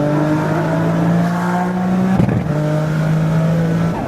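Turbocharged V6 of a 2004 Infiniti G35 coupe running under way, heard from inside the cabin. It has an exhaust leak that lets boost pressure escape so the turbo can't spool fully. The engine note breaks briefly about halfway through and continues slightly lower.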